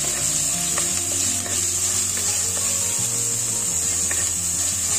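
Crushed ginger-garlic, green chillies and curry leaves sizzling in hot oil while an orange plastic spatula stirs and scrapes them around a black pot, with a few light knocks of the spatula.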